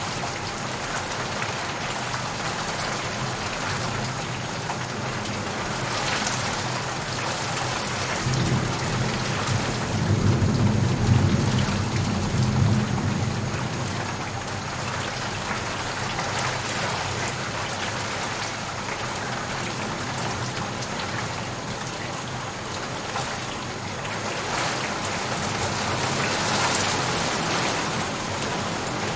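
Steady rain falling, with a low roll of thunder rumbling from about a third of the way in, loudest near the middle before it fades back under the rain.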